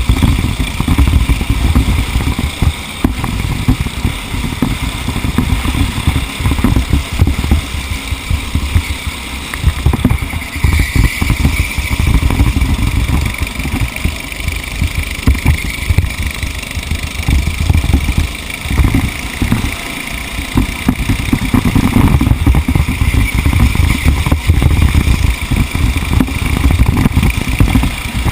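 A racing vehicle's engine heard close up, running hard throughout with its level rising and falling continuously.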